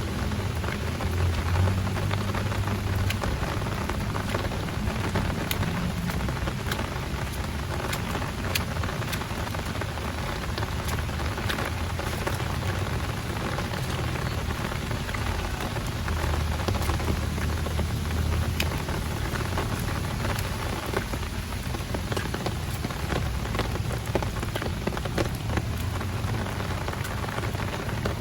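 Heavy rain falling: a steady hiss with many sharp, close drop taps, and a low rumble that swells about a second in and again around sixteen seconds.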